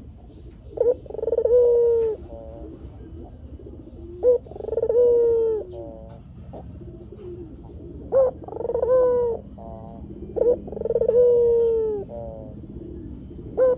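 White barbary dove (puter putih) cooing in a repeated phrase about every three to four seconds. Each phrase is a short sharp note, then a long drawn coo that drops in pitch at the end, then a few quick, quieter stuttering notes.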